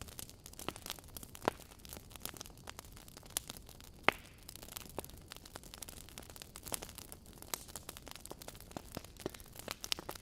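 Wood fire burning in a fireplace, its logs crackling with irregular sharp pops and snaps over a low hiss; one louder pop about four seconds in.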